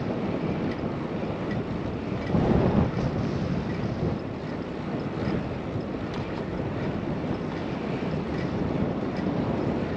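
Wind rushing over a bicycle-mounted camera microphone as the bike rides along, a steady low noise with a stronger gust about two and a half seconds in.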